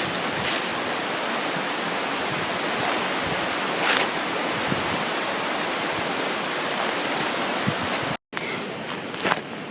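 Steady rushing of a river, with a few short clicks over it. About eight seconds in the sound cuts out for a moment, then goes on a little quieter.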